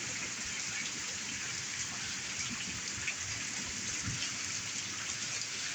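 Heavy rain pouring down steadily, an even hiss of falling drops.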